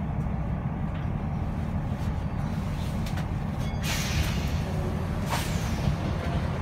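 Steady low rumble of a stationary passenger train, heard from inside the carriage. Two short bursts of hiss come about four and five and a half seconds in.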